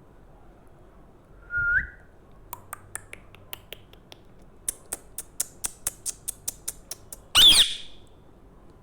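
Pet parrot giving a short rising whistle, then a run of sharp clicks, about two or three a second, and a loud high screech near the end.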